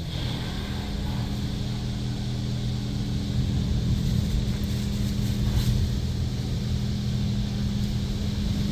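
PDQ Laserwash M5 touch-free car wash running, heard from inside the car: a steady machine hum under a hiss of water spray, slowly growing louder.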